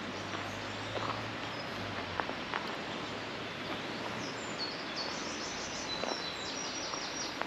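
Outdoor ambience with a songbird singing rapid runs of high repeated chirps in the second half, over a steady background hiss and a faint low hum that fades out about two seconds in.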